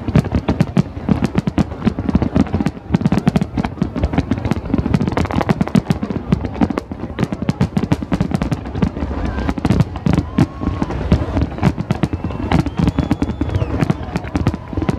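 Large aerial fireworks display: a dense, continuous barrage of overlapping bangs and crackling bursts.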